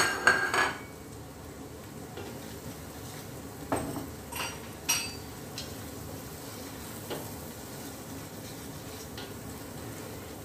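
Onions and whole spices sizzling in hot ghee in a stainless-steel pot while a wooden spoon stirs them. A ringing metal clink opens it, and the spoon knocks against the pot a few times about four to five seconds in and once more near seven seconds.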